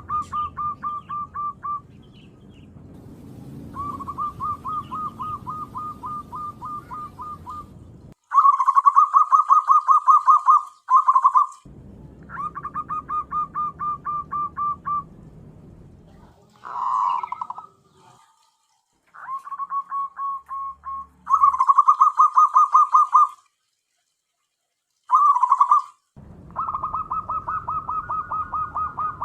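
Zebra dove (perkutut) cooing: bouts of rapid, evenly repeated notes, some loud and some fainter, broken by short gaps. The sound cuts off abruptly to silence between some bouts.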